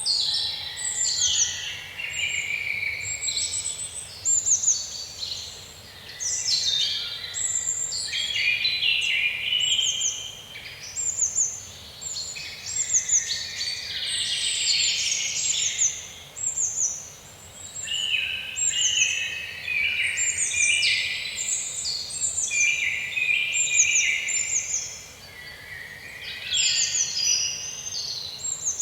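Woodland birdsong: several songbirds singing at once, a near-continuous chorus of quick, high, falling chirps and trills.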